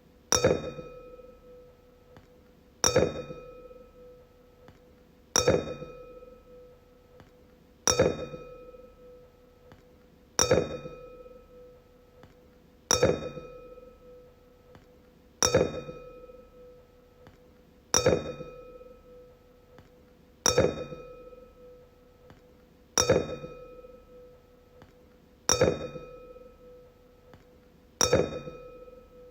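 Wine glass struck over and over, about once every two and a half seconds, twelve times. Each tap rings out in one clear, steady tone with fainter higher overtones, then fades.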